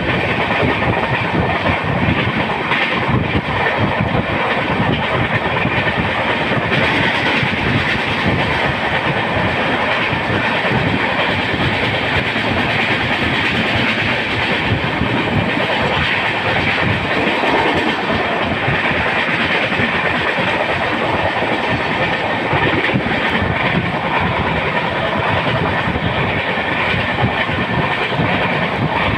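Passenger train running on the rails: a steady rolling rumble with the wheels clicking over rail joints.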